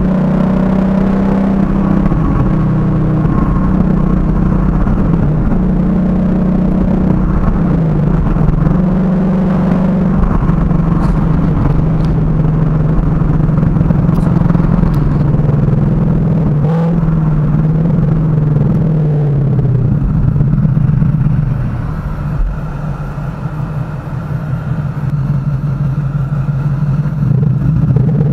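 Ford Mustang GT's 5.0-litre V8 through a Borla aftermarket exhaust, heard from inside the cabin while driving: a steady, loud drone whose pitch dips and recovers a few times. About three-quarters of the way through it goes quieter, and right at the end the pitch starts to rise as the engine revs up.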